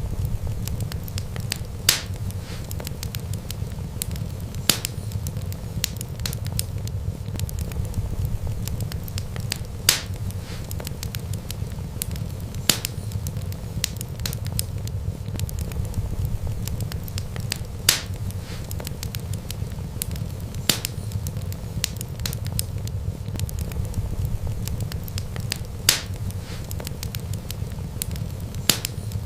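Wood fire crackling over a steady low rumble, with sharp pops in pairs every several seconds.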